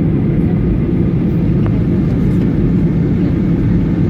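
Steady low rumble of a Boeing 737 in flight, engine and airflow noise heard inside the cabin, with no change in level.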